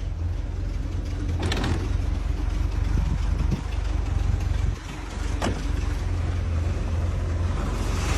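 Chevrolet 1970 LT1 350 small-block V8 idling steadily with a deep, even rumble. Two short clicks, about a second and a half in and again near five and a half seconds.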